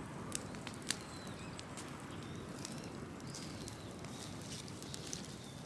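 Large open fire of burning wood and brush crackling, with sharp pops now and then, the loudest two within the first second. Faint bird chirps in the background.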